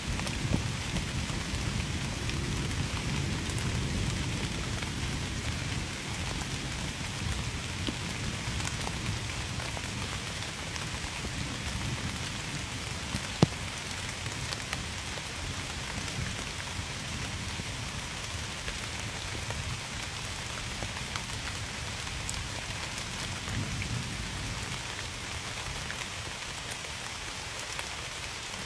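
Steady rain with sharp individual drop hits scattered through it, one loud hit about halfway through. A low rumble of thunder is strongest early on and fades away.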